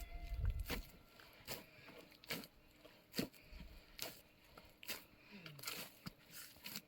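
A series of short, sharp knocks or slaps, evenly spaced a little under a second apart, fairly faint.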